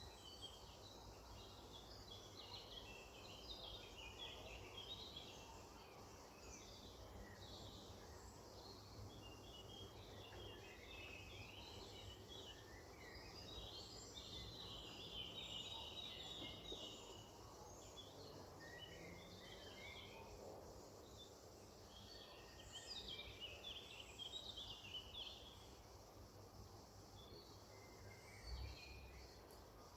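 Faint chorus of songbirds chirping and trilling, with a busier stretch of song about halfway through, over a steady low background rumble.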